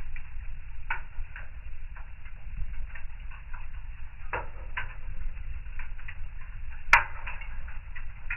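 Wood fire in a fireplace crackling over a low steady rumble, with scattered irregular pops. One sharp, loud pop comes about seven seconds in.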